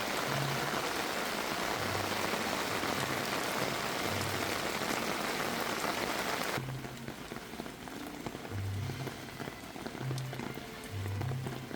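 Heavy rain falling, a steady hiss that cuts off abruptly a little past halfway, over background music with a low bass line.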